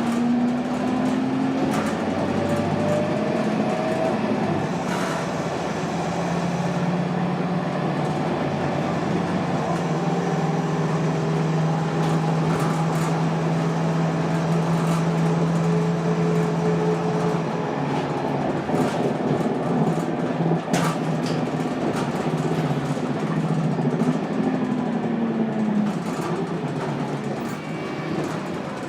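Scania DC9 nine-litre inline five-cylinder turbo diesel of a Scania K280UB bus driving through its ZF Ecomat automatic gearbox: the engine note rises at the start, holds steady through the middle and rises again near the end, with occasional sharp rattles. The uploader says it sounds very unhealthy.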